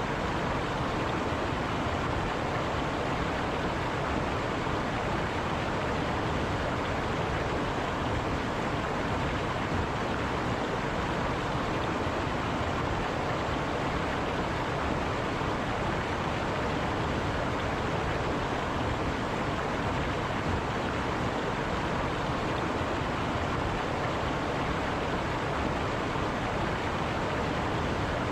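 A river flowing over rocks, a steady rushing of water.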